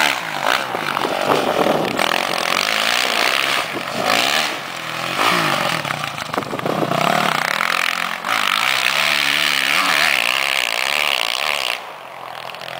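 Motocross dirt bike engine revving up and down on the throttle, with several brief let-offs, dropping away near the end.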